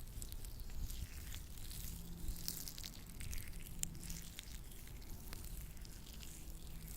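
Latex-gloved hands rubbing and pressing lotion close to the microphone, giving a dense run of sticky little crackles and squishes.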